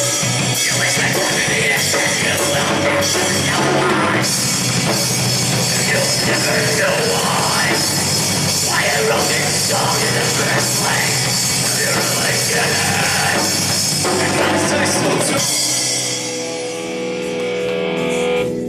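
A live rock band playing a loud song with guitar and drums. About three-quarters of the way through, the full band drops out, leaving sustained notes ringing.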